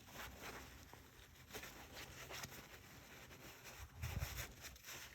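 Faint handling noises: a few soft scrapes and rustles as the differential drain plug is wiped clean, with a low thump about four seconds in.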